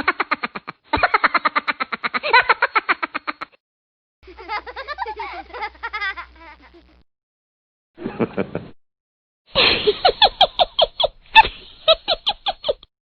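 Several short laughing sound effects played one after another, with brief silent gaps between them. Each is a quick rhythmic 'ha-ha-ha' of laughter.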